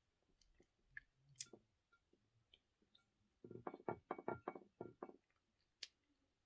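Close-miked eating sounds of a cupcake: faint mouth clicks, then a quick run of about eight louder chews over a second and a half, and a single sharp click near the end.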